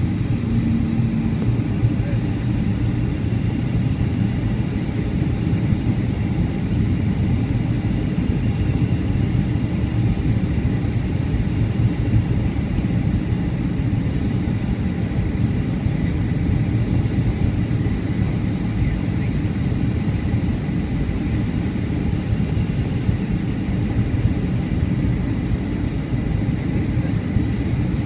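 Steady low rumble of engine and airflow noise inside the cabin of a Boeing 757-200 in flight, with a faint high steady tone above it.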